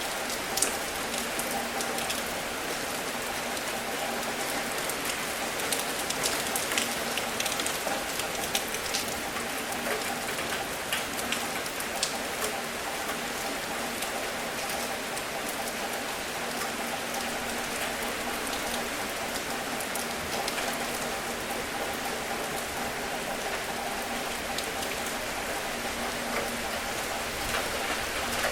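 Steady rain falling, an even hiss with many sharp individual drop hits scattered through it.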